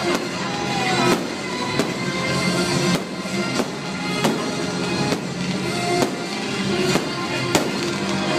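Fireworks bursting over a music soundtrack: sharp bangs about once a second, irregularly spaced, over steady music.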